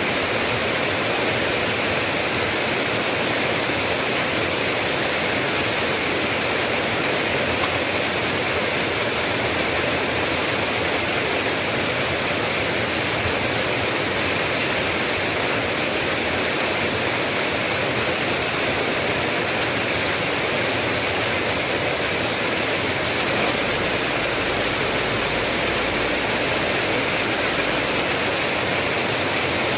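Steady heavy rain: a dense, even hiss with no separate drops standing out.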